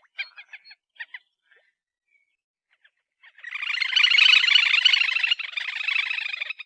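Grebe (titihan telaga) calling: a few short notes, then after a pause a long, rapid, even trill that cuts off abruptly near the end.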